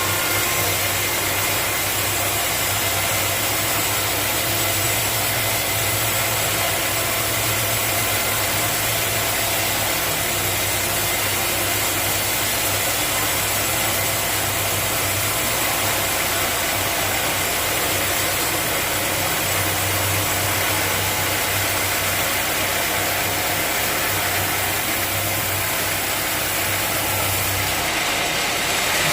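Sawmill machinery running steadily: a constant low hum with a high whine over it. Just before the end the low hum drops away and the higher sound grows brighter.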